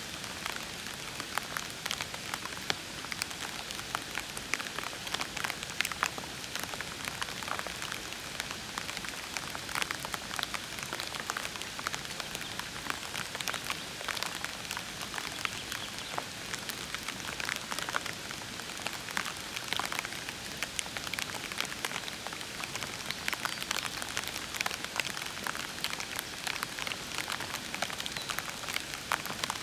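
Steady rain falling, an even hiss dotted with many distinct drop impacts.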